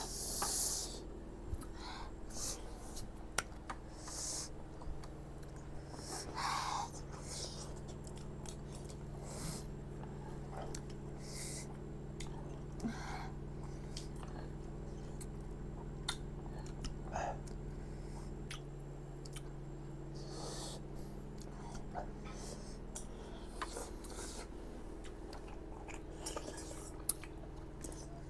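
People eating spicy noodles, heard as scattered chewing, slurps and small clicks of utensils over a steady low hum.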